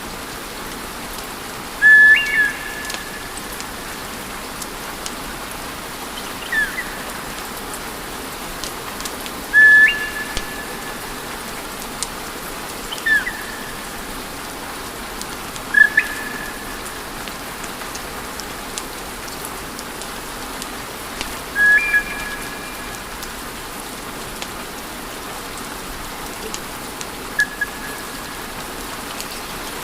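Wood fire in a fireplace crackling over a steady hiss, with scattered small pops. About seven short whistles cut through it every few seconds, some stepping up in pitch, and these are the loudest sounds.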